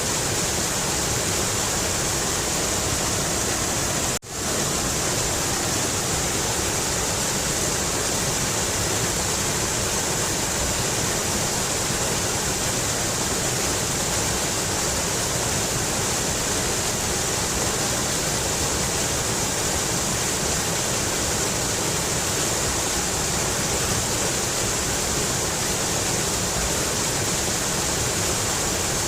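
Mountain river rushing steadily, a dense even hiss of fast-flowing water. About four seconds in the sound drops out for an instant and swells back in.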